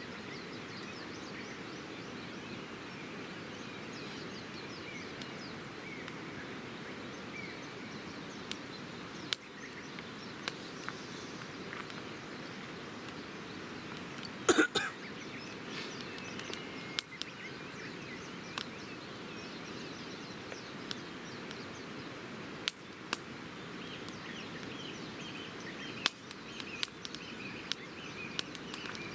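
Wood campfire crackling, with scattered sharp pops and a louder burst of crackles about halfway through, over a steady background hiss; birds chirp faintly.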